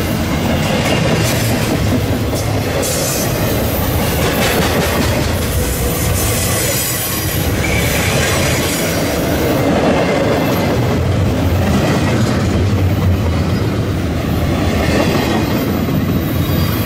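Double-stack intermodal well cars rolling past close by: steel wheels on rail make a loud, steady rumble, with scattered knocks as the trucks pass over rail joints.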